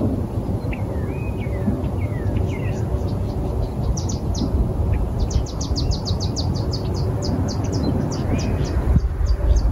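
Wild birds calling at a marsh pond: a few short slurred whistles in the first few seconds, then a fast run of short, high, dry notes, about six a second, over a steady low rumble.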